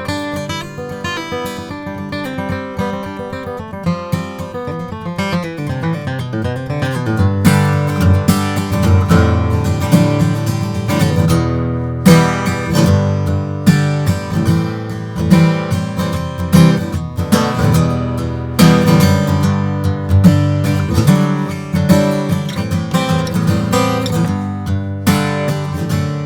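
Martin DSS-17 slope-shoulder dreadnought acoustic guitar, with mahogany back and sides and a Sitka spruce top, being played: picked single notes for the first several seconds, then strummed chords.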